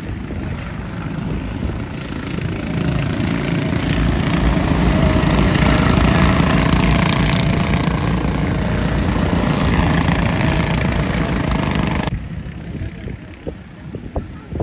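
Go-kart engines buzzing as a pack of racing karts runs by, swelling louder over several seconds with wavering engine pitches. The sound drops off suddenly about two seconds before the end.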